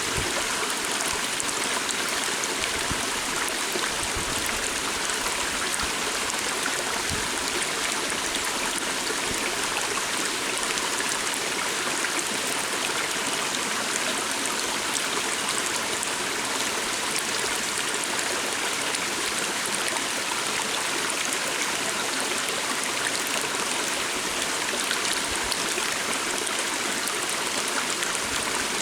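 Stream of water flowing over rocks, a steady rushing and trickling that does not change.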